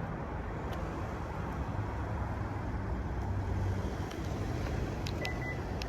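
Steady low vehicle rumble, with a short high beep near the end.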